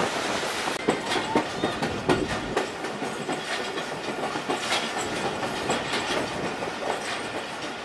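Pakistan Railways Awam Express passenger train running at speed: its coach wheels clatter over the track in irregular clicks and knocks over a steady rolling rush.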